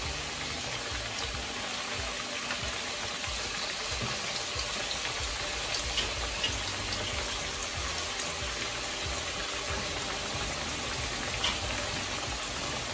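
Raw minced-mutton kababs shallow-frying in hot oil in a frying pan: a steady sizzle, with a few faint clicks about six and eleven seconds in.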